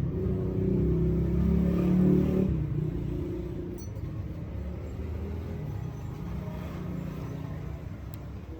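Daihatsu KF three-cylinder engine running, revving up over the first two seconds, then dropping back to a steady idle.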